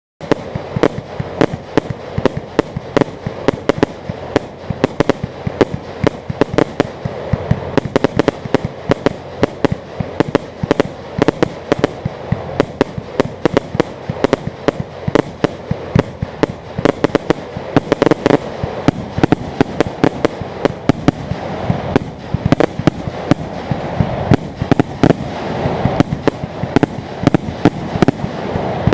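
Fireworks display going off: a dense, continuous run of sharp bangs and crackles, several a second, over a steady noisy rumble. It starts abruptly.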